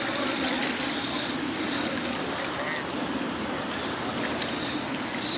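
Steady rush of floodwater, an even noise with no distinct splashes, under a thin, steady high-pitched whine.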